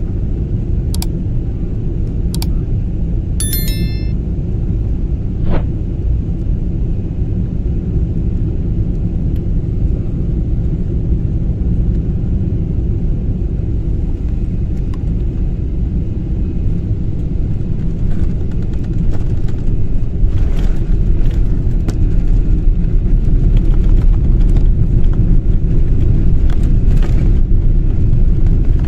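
Low, steady rumble of a jet airliner coming in to land, growing louder over the second half, with a few faint clicks and a brief high chirp near the start.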